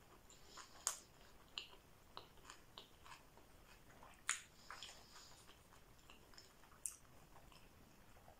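Quiet, close-miked chewing of a mouthful of sushi roll, with scattered soft mouth clicks at irregular intervals; the sharpest click comes about four seconds in.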